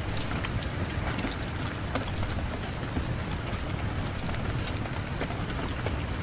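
Fireplace fire crackling, with many sharp irregular pops and snaps over a steady low rumble of wind.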